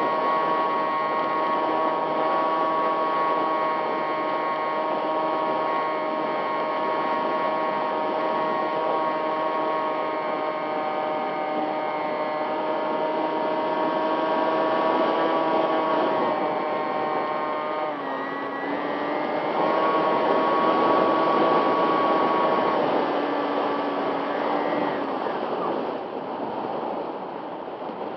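RC plane's motor and propeller whining steadily at a held throttle, over the hiss of strong wind. The pitch drops and comes back about two-thirds of the way through, then the whine fades out near the end as the throttle is cut back.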